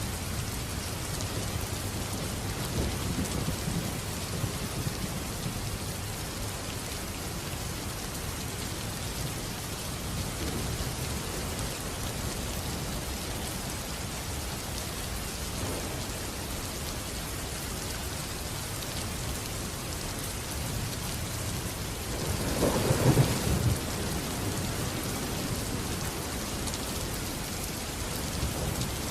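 Steady heavy rain with low rumbling thunder. A louder crack and rumble of thunder comes about 22 seconds in.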